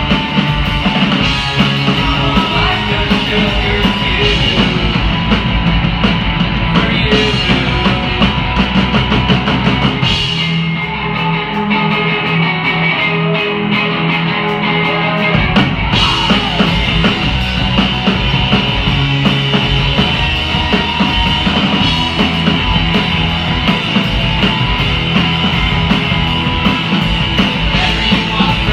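Rock band playing live: drum kit and guitar. About ten seconds in, the cymbals and low end drop away, and about six seconds later the full band comes back in with a crash.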